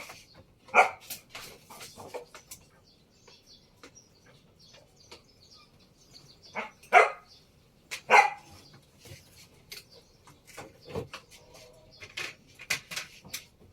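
A dog barking: three short, loud barks, one about a second in and two close together around seven and eight seconds in, with scattered light clicks and knocks between them.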